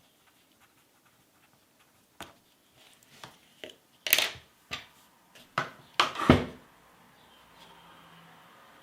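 Light clicks and knocks of drawing pencils or crayons being handled on a desk, a few sharper clatters about four and six seconds in.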